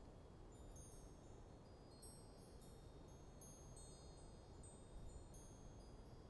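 Wind chimes tinkling faintly in a light breeze: many scattered high ringing notes, struck irregularly and overlapping, over a soft low rush of wind.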